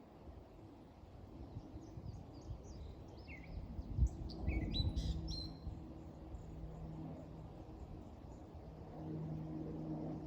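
Small birds chirping in a quick series of short calls for a few seconds over a low rumbling outdoor background, with a thump about four seconds in and a steady low hum coming and going.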